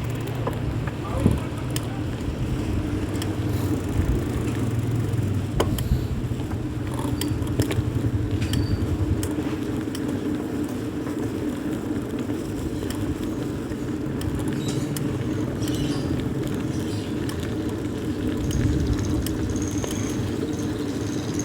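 Steady low rumble of riding noise from a phone carried on a moving bicycle, with many small rattles and clicks throughout.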